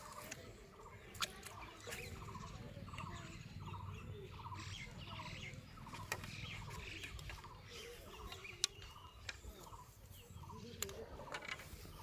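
A bird calling in a long, regular series of short buzzy notes, about two or three a second, that stops near the end, with a few sharp clicks now and then.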